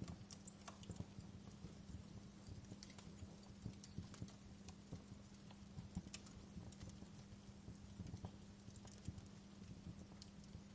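Faint wood fire crackling: irregular sharp pops and snaps of varying strength over a low, steady rumble.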